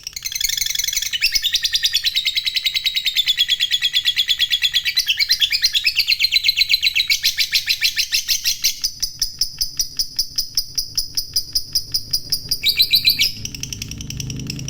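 Lovebird giving a long ngekek: a rapid, sustained chattering trill of high, evenly repeated notes that runs for about thirteen seconds and breaks off suddenly near the end.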